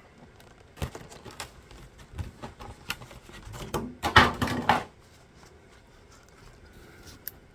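Packaging of a 1:64 diecast toy car being opened by hand: scattered clicks and crinkles, with a louder rustling burst about four seconds in, then quieter handling.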